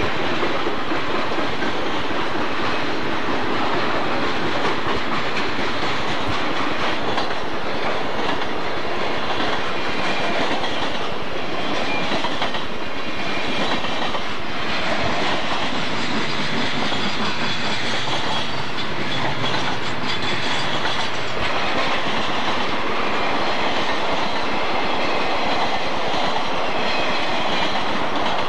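Intermodal container train rolling past close by: a loud, steady clatter and rumble of steel wheels on rail as the container cars go by.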